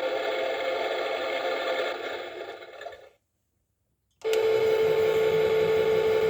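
Small electric motor of a toy washing machine running with a steady whine, winding down and stopping about three seconds in. After a second of dead silence a click and a steady, slightly lower whine start up again.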